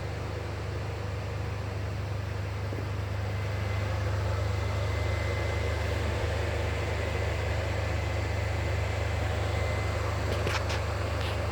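A steady low mechanical hum with a faint high whine over it, and a few sharp clicks near the end.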